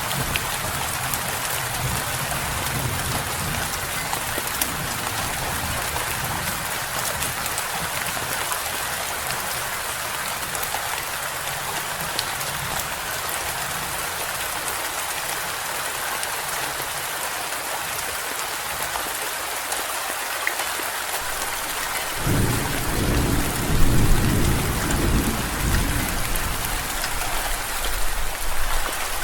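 Steady rain falling in an even hiss. A low roll of thunder swells about three-quarters of the way through, peaks a couple of seconds later and fades away.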